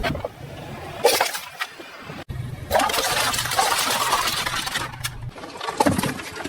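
Car engine running low while its tyres roll over and crush objects, with crackling and crunching; the sound breaks off abruptly twice where clips are cut together.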